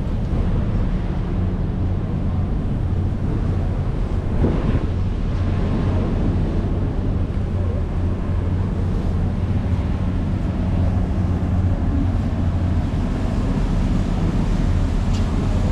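Engine of a reef cruise boat running steadily underway, a constant low drone, with rushing wind and water noise over it.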